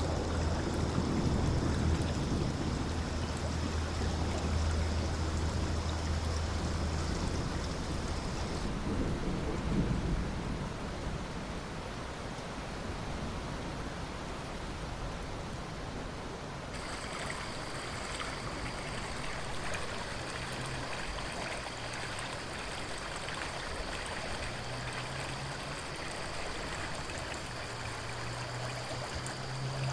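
Steady rain and running river water, with a low thunder rumble that fades out about ten seconds in.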